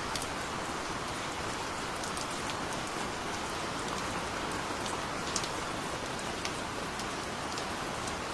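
Steady gentle rain, a constant hiss with the patter of individual drops scattered through it.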